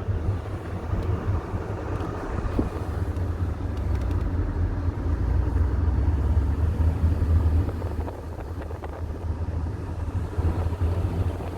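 Road and engine noise inside a moving car's cabin: a steady low rumble that swells midway and eases off a little later.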